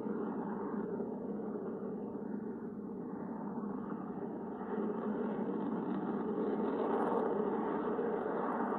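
Jet noise from an F-22 Raptor's twin afterburning turbofan engines, a steady rushing sound that dips a little a few seconds in and swells again in the second half.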